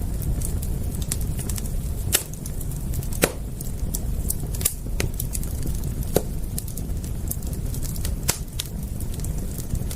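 Wood fire crackling, with irregular sharp pops and snaps, the loudest about two, three and eight seconds in, over a steady low rumble.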